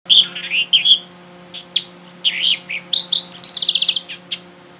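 A songbird singing a varied run of chirps and whistles, with a fast trill of about a dozen notes past the middle, over a faint steady low hum.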